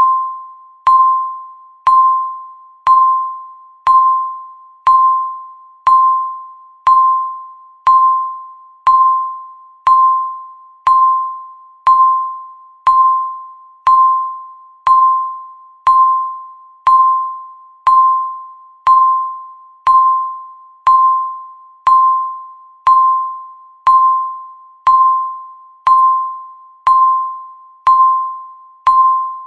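Countdown timer's ticking sound: a clear electronic ding at one steady pitch, struck once a second, each one dying away before the next.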